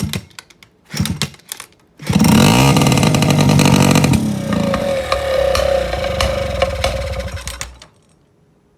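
A few short knocks, then a Honda QR50's small two-stroke single-cylinder engine starts about two seconds in, revs up and down and runs loudly before cutting off abruptly near the end.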